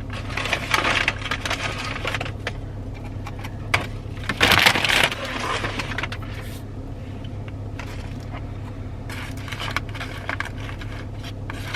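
Fast-food packaging being handled: crinkling and rustling of paper and plastic with a few small clicks, loudest about four and a half seconds in, over a steady low hum.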